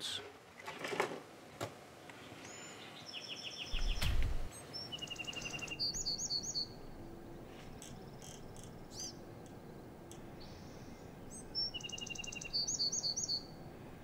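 Small birds chirping in short runs of quick, high notes, in two groups, over a steady background hiss, with a dull low thump about four seconds in.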